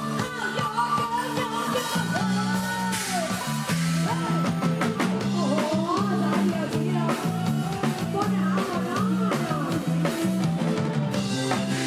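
Live band music, with bass, drums and guitar, and a voice singing a melody over it.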